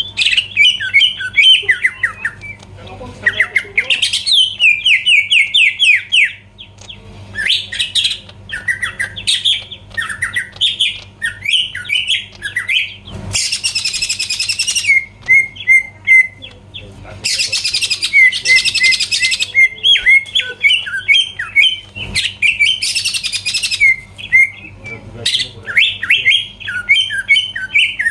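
Green leafbird (cucak ijo) in full song: a fast, varied run of rapid chirps and trills, broken three times by harsh, scratchy rasping passages. A faint steady low hum runs underneath.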